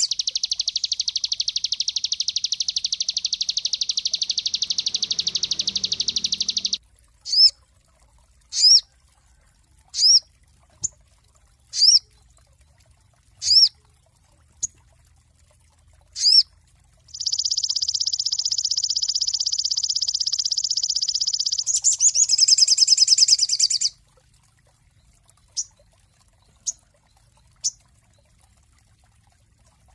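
Sogon songbird singing: a long, very fast high trill, then a string of single sharp upswept whistled notes about a second apart, a second long trill, and a few short chips near the end.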